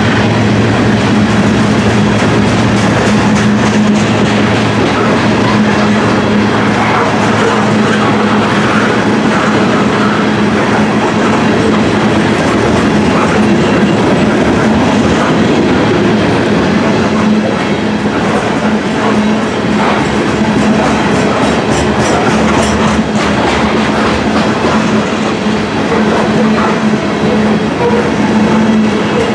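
Freight cars of a grain train rolling past at speed, steel wheels clicking over the rail joints, with a steady hum.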